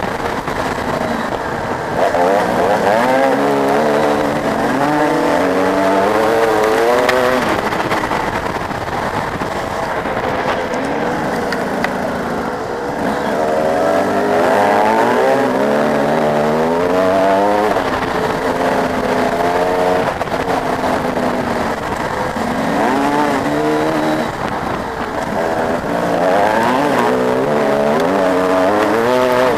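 Motocross dirt bike engines at race speed, the pitch repeatedly climbing and dropping back with gear changes and throttle, with more than one bike heard at times.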